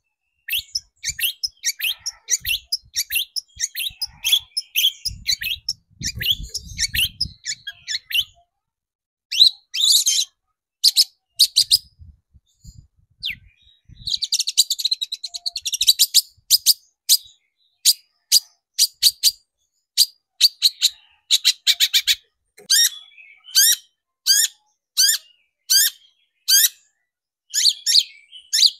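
Long-tailed shrike (cendet) singing: a fast run of sharp chattering notes, a quick trill about halfway through, then sharp calls repeated evenly about twice a second.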